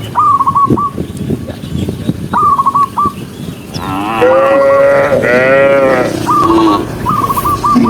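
Cattle mooing: a long, wavering moo about four seconds in that lasts around two seconds and trails off. A bird calls a quick run of short high notes several times over it, and there are scattered knocks in the first few seconds.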